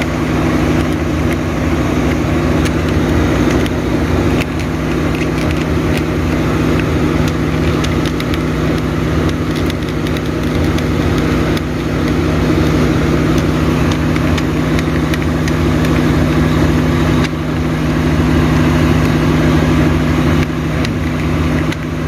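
A vehicle engine idling steadily with a constant hum, with faint clicks of handling over it.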